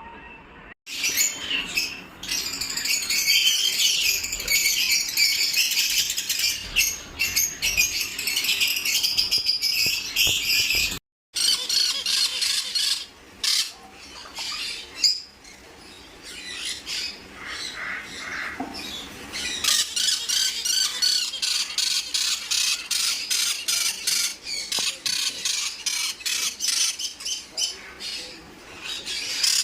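Many small caged parrots chattering and squawking together, a dense stream of short high calls. The sound drops out for a moment about eleven seconds in, then the chatter picks up again.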